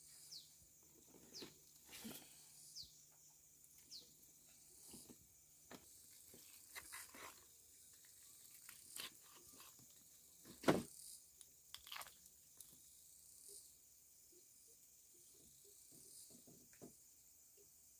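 Quiet scene with faint, scattered sounds: short high falling chirps from birds every second or two, and light clicks and knocks. The loudest is a sharp knock about eleven seconds in.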